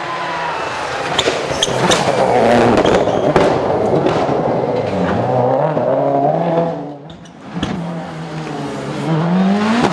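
Rally car engine at full race pace, the note rising and falling through gear changes, with scattered sharp cracks. The sound dips briefly about seven seconds in, then the engine revs climb again.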